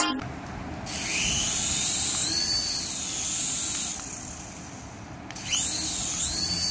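Small electric motor of a toy RC aircraft whirring with a high hiss, its whine rising and falling in pitch as it speeds up and slows, in two spells: from about a second in, and again near the end.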